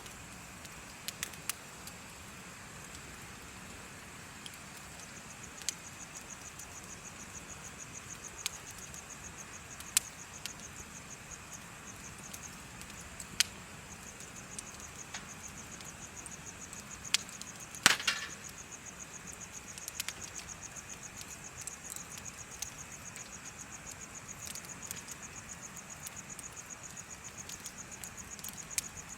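Bonfire crackling with scattered sharp pops over a steady hiss, the loudest pop about two-thirds of the way through. From about six seconds in an insect chirps in a fast, even, high trill.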